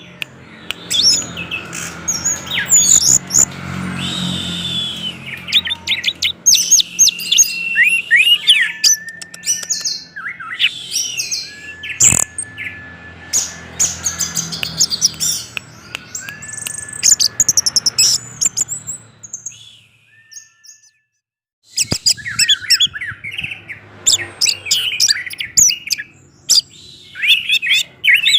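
Orange-headed thrush singing a fast, varied song of whistles, slides and chattering notes, broken by a pause of about two seconds roughly two-thirds of the way through.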